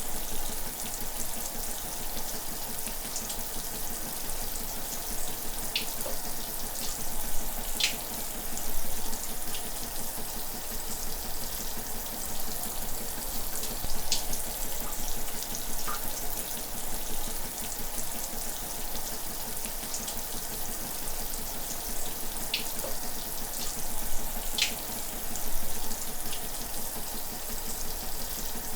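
Shower running steadily, a continuous hiss of water spray with occasional small splashes.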